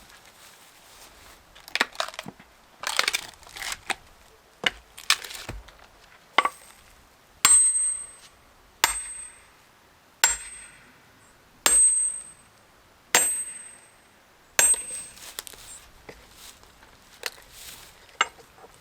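Sledgehammer driving a steel splitting wedge into a hardwood log: a few irregular knocks and crunching of the wood, then six evenly spaced ringing metal strikes, about one every second and a half.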